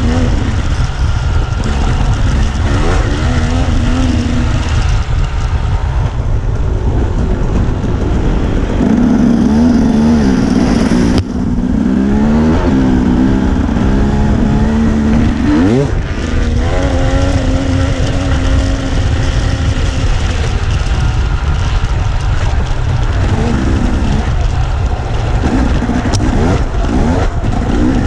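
Dirt bike engine running while being ridden, its pitch climbing and falling again and again as the throttle opens and closes, over a heavy low rumble of wind on the microphone.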